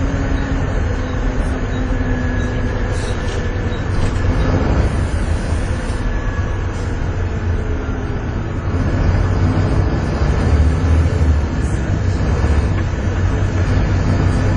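Volvo B7TL double-decker bus's six-cylinder diesel engine pulling hard, heard from inside the bus as a steady heavy rumble with the thin whine known as the B7TL 'hoover'. It grows a little louder about nine seconds in.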